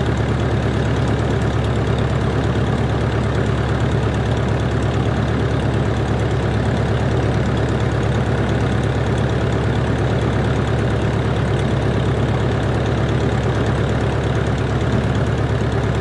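Cessna 140's four-cylinder air-cooled engine and propeller running steadily, with an even, unchanging drone.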